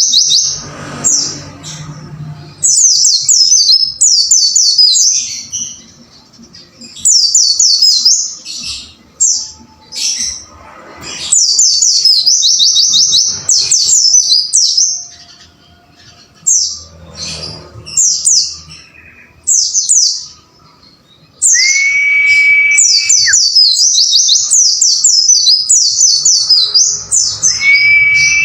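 White-eye (pleci) singing in fast chattering bursts of rapid, very high, downward-slurred notes, with short pauses between phrases. About 21 seconds in, and again at the very end, a long level whistle sounds at a lower pitch.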